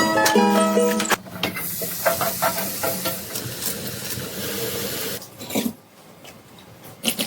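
Background music for about the first second, then a steady hiss with scattered light crackles lasting about four seconds, ending with a brief louder burst.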